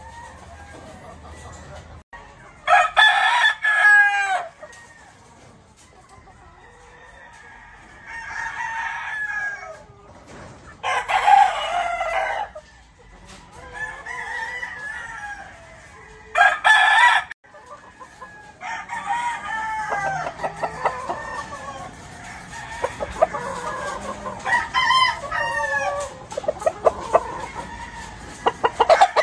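Gamefowl roosters crowing again and again, with clucking between the crows; the loudest crows come about three, eleven and seventeen seconds in, and the calling grows busier over the last ten seconds.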